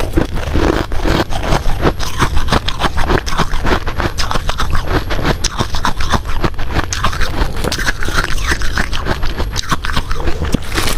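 Hard ice being bitten and chewed, a dense run of sharp crunches and crackles following one another without a break.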